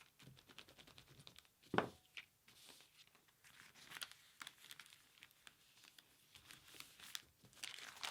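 Paper bag and paper cut-outs rustling and crinkling faintly as they are handled and pressed into place, with one louder soft bump a little under two seconds in.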